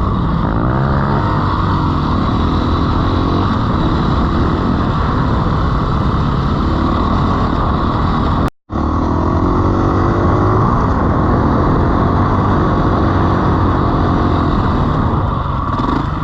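Dirt bike engine running hard, its pitch rising and falling as the throttle is worked riding through sand dunes. The sound breaks off completely for an instant about halfway through, then resumes.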